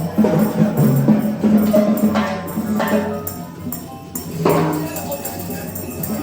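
Several percussion instruments played freely at the same time: jingling tambourine-like shaking and clicks, with a few sharp strikes that ring out, about two, three and four and a half seconds in, over held pitched tones.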